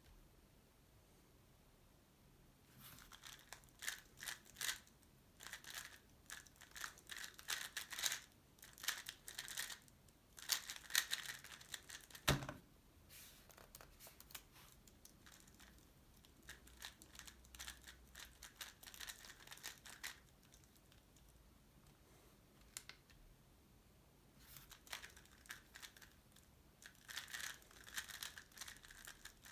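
Tornado V3 Pioneer 3x3 speedcube being turned fast, its plastic layers clicking and rustling in quick flurries, with a single sharp thump about twelve seconds in and quieter, sparser turning afterwards.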